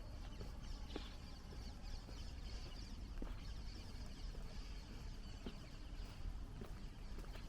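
Small birds chirping continuously over a steady low rumble of street ambience, with a few faint scattered taps of footsteps.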